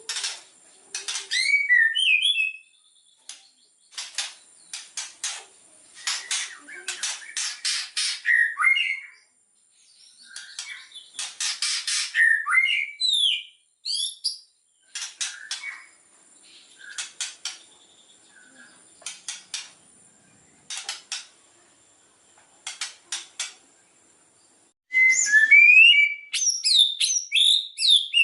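White-rumped shama (murai batu) singing in short phrases: fast rattling clicks mixed with brief whistled slurs, with pauses between phrases and a denser run of whistles near the end.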